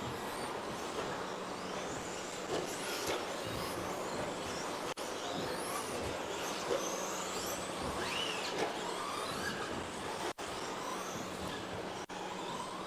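A pack of electric RC racing trucks running together, their 13.5-turn brushless motors whining and sliding up and down in pitch as they accelerate and brake around the track, over a steady hiss of tyres and track noise. The sound cuts out very briefly three times.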